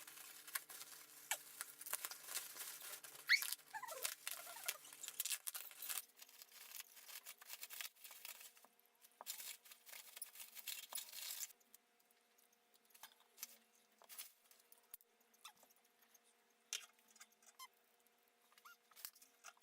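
Faint rustling, scraping and small clicks and taps of packaging and parts being handled as a boxed flower stand is unpacked. The handling sounds are busy for about the first half, then thin out to scattered light taps.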